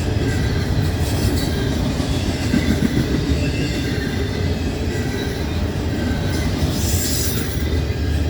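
Double-stack intermodal container cars of a freight train rolling steadily past: a continuous rumble of wheels on rail with a faint high wheel squeal.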